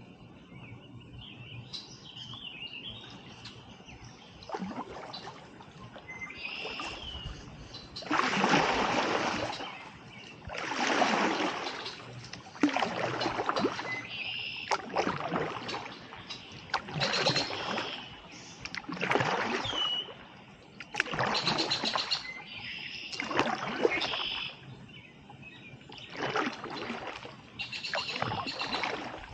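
Kayak paddle strokes splashing through the water, one stroke about every two seconds, starting roughly a quarter of the way in. Birds chirp throughout, and alone at first.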